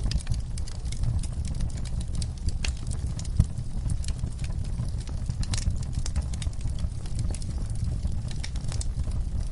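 Campfire crackling: irregular sharp pops and snaps of burning wood over a steady low rumble, with one louder pop about three and a half seconds in.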